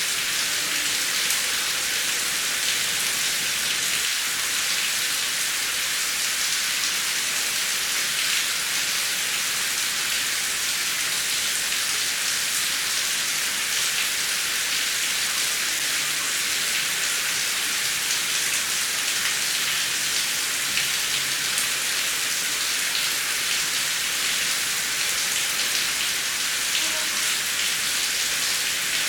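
Heavy rain falling steadily: a dense, even hiss flecked with countless small drop ticks, with no thunder.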